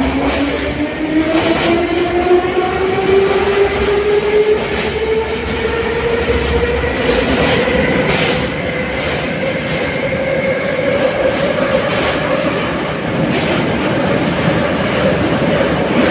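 An 81-717.5 metro car running in a tunnel: the traction motor whine rises steadily in pitch as the train gathers speed, then levels off about halfway through. Under it runs the steady rumble of the wheels with faint rail-joint clicks.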